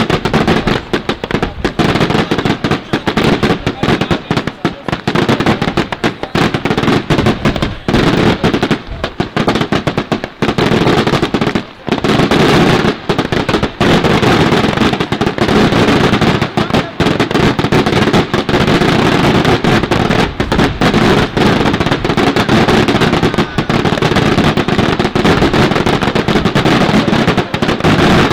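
Daytime fireworks display: a dense, near-continuous barrage of bangs and firecracker crackling, with a brief lull about twelve seconds in.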